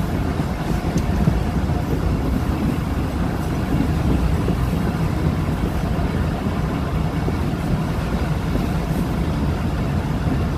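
Passenger train coaches running at speed: a steady rumble of wheels on the track with the rush of air past the open coach.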